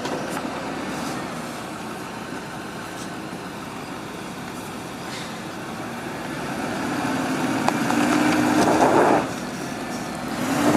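Truck engine revving as the truck tries to pull free on an icy driveway. A steady run for the first several seconds, then a louder rev that climbs from about six seconds in and cuts off near nine seconds, with another rev starting at the end.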